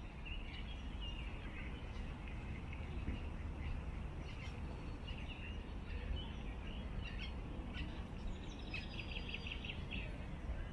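Wild birds chirping and calling in short phrases, with a quick trill near the end, over a steady low rumble.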